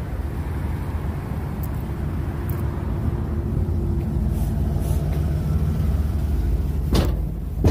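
Steady low rumble of a running vehicle engine, with two sharp clicks near the end.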